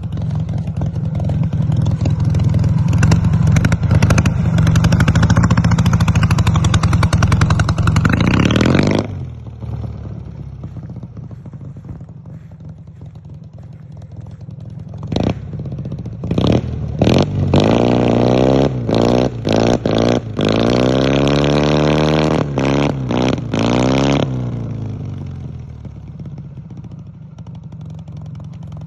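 Ural motorcycle's flat-twin engine running hard for the first several seconds, then dropping back. Later it revs up and down in a series of quick throttle blips before settling to a quieter run. The bike is running for the first time after standing two years, partly disassembled.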